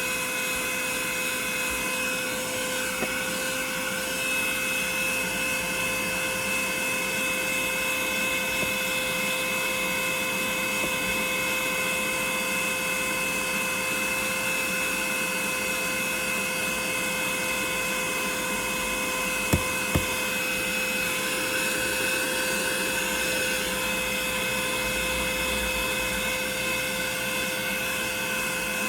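Vacuum cleaner running steadily with a high whine while cleaning a car interior, with two sharp knocks close together about two-thirds of the way through.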